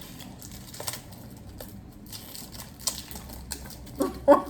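Wet smacking and clicking of a mouth chewing a large wad of gum, faint and irregular. Near the end a voice breaks in with short, rapid pitched bursts.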